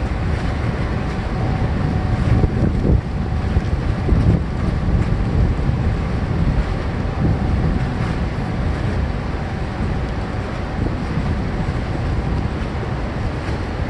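Boat engines running on a canal, a steady low rumble, with wind buffeting the microphone.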